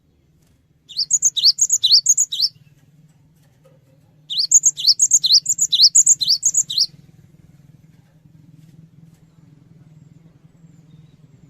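Cinereous tit (gelatik batu) singing: two bursts of quickly repeated high two-note phrases, the first about a second in and the second, longer one about four seconds in, then only a faint low hum.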